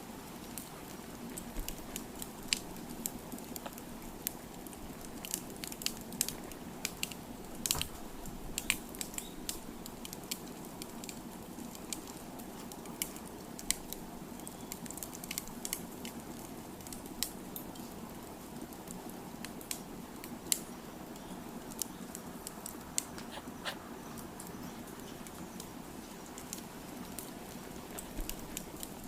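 Wood fire crackling: irregular sharp pops and snaps over a steady low hiss of the flames.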